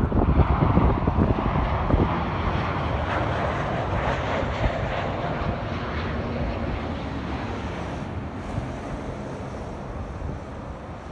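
Jet airliner arriving overhead and passing, its engine noise a steady rushing that gradually fades away. Wind buffets the microphone with low rumbles during the first couple of seconds.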